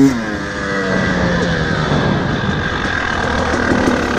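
Single-cylinder two-stroke engine of a KTM 300 XC-W dirt bike coming off the throttle at the start, then running steadily at low revs.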